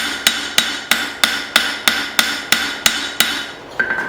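Blacksmith's hand hammer striking hot steel from an old file on an anvil, steady blows about three a second with a bright ring. The blows stop shortly before the end.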